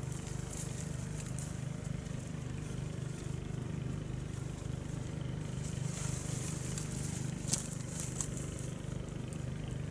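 A small engine running steadily with a low, even pulsing hum, with faint crackles and one sharp click about seven and a half seconds in.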